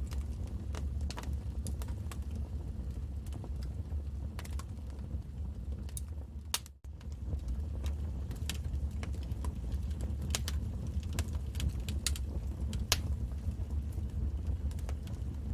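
Wood fire burning in a fireplace: a steady low rumble of the flames with irregular sharp crackles and pops. The sound drops out briefly about seven seconds in.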